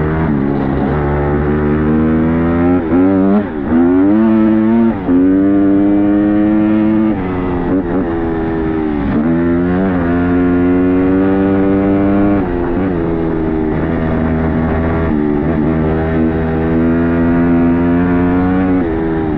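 Dirt bike engine running under way, its pitch climbing and dropping again and again as the throttle opens and closes, with several quick dips between pulls.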